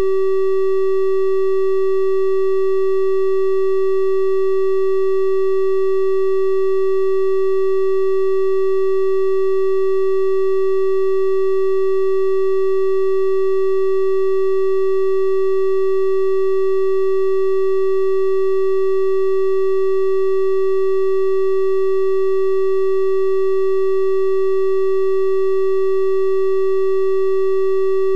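Steady synthesized 384 Hz triangle-wave tone, held at one constant pitch and level, with faint overtones above the main note.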